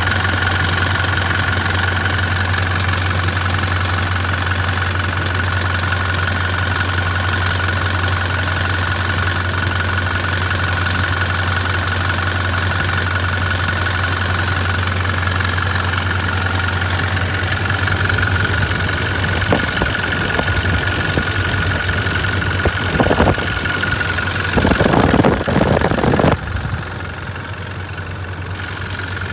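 Toyota Hilux 2.8 four-cylinder turbodiesel idling steadily, with a steady high whine over the low idle note: the timing-chain noise that the owner calls a chronic fault of these engines. A few louder noises break in near the end.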